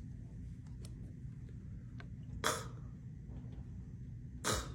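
Two short breathy puffs of air from a man's mouth, about two seconds apart, over a low steady room hum.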